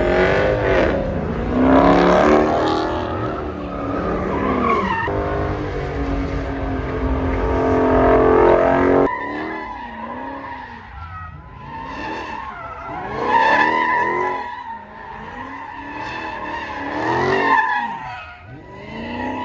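A car engine revving hard with tires squealing as the car spins in the street. About halfway through, the sound changes abruptly to a higher tire squeal that swells and fades several times, with the engine pitch rising and falling.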